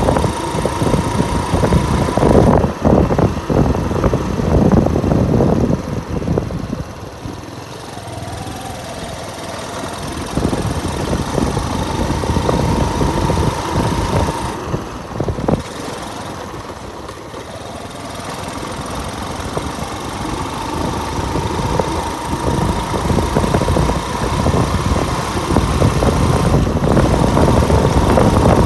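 Motorcycle engine running on the move, with wind buffeting the microphone. A thin whine comes and goes, and the sound eases off through the middle before building again toward the end.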